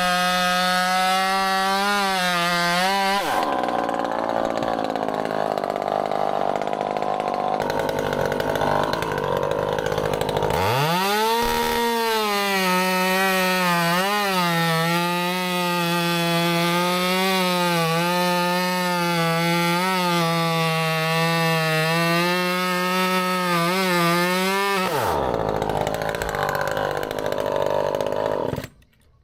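Two-stroke chainsaw running at high revs with its pitch wavering as it cuts wood. It drops to a lower, rougher sound about three seconds in, revs back up around eleven seconds, drops again near the end and then cuts off suddenly.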